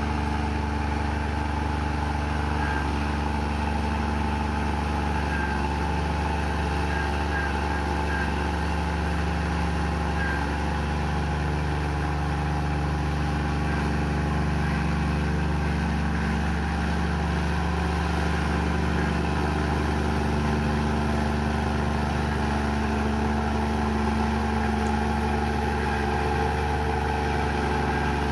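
Komatsu bulldozer's diesel engine running at a steady, unchanging level with a deep hum.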